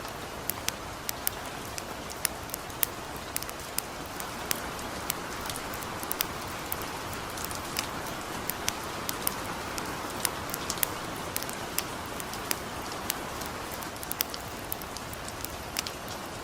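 Steady hiss of light rain under a crackling wood campfire, whose sharp pops come irregularly, a few a second.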